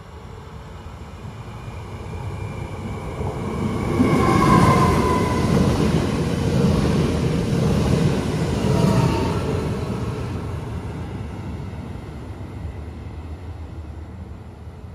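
Electric passenger train approaching, rushing past at speed with wheels clattering on the rails, loudest from about four to nine seconds in, then fading as it moves away.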